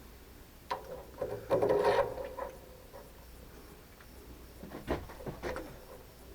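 Light workshop clatter: a few scattered knocks and clicks, with a short scrape about a second and a half in, as a part and hand tools are handled.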